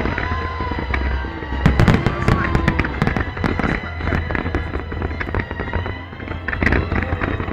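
Fireworks going off: rapid crackling pops and bangs throughout, with louder clusters of bursts about two seconds in and again near the end, over background music.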